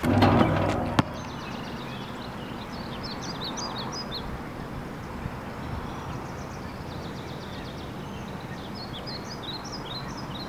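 Outdoor ambience with small birds chirping in quick clusters of short notes, once about two to four seconds in and again near the end. It opens with a brief louder stretch that ends in a sharp knock about a second in.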